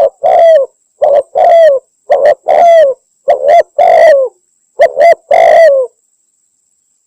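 Spotted dove cooing loudly: a recorded lure call of a female spotted dove calling a male. It gives a string of short and longer coo notes, each sagging slightly in pitch, in phrases about a second apart, and stops about six seconds in.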